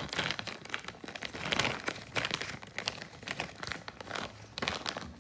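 Irregular rustling and crinkling as a pocket hand chainsaw is handled and packed into its small storage pouch.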